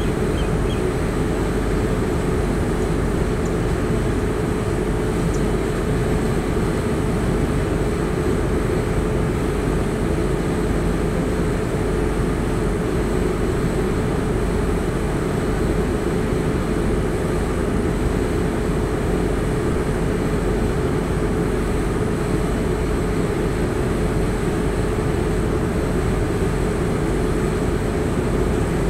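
The coaches of the 12419 Gomti Express passenger train rolling past at speed: a steady, unbroken rumble of wheels on rails.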